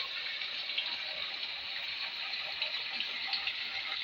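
Spring water flowing and splashing steadily.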